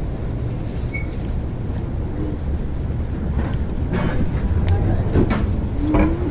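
Steady low rumble of city street traffic, with faint voices of passers-by in the second half.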